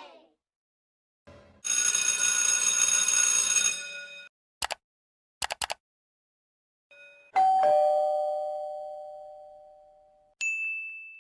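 A string of separate sound effects: a steady bright tone for about two seconds, a few quick clicks, then a two-tone ding-dong doorbell chime, high note then low, ringing out for about three seconds, and a short high ding near the end.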